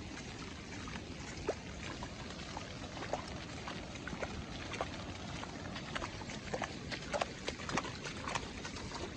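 Heavy rain falling steadily, with many close drops splattering in irregular taps that grow busier in the second half.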